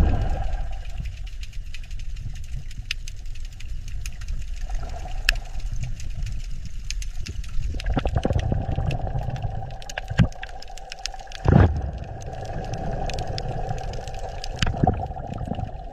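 A motor running steadily with a low rumble, growing louder about halfway through, with a few sharp knocks and a louder thud about two-thirds of the way in.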